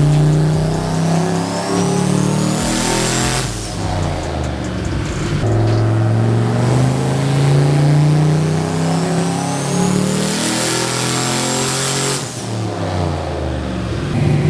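Turbocharged truck engine run at wide-open throttle on a chassis dyno. It revs up twice, with the turbo whistle rising along with the engine each time, and the revs fall away sharply after each climb.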